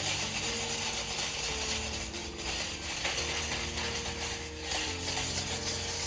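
A dense, rapid crackling rattle over background music.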